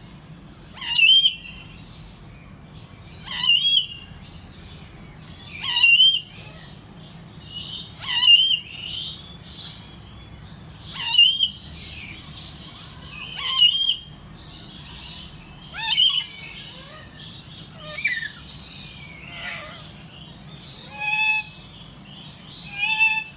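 A bird giving a loud call over and over, about every two and a half seconds. Near the end a different bird answers twice with a clearer, steadier call.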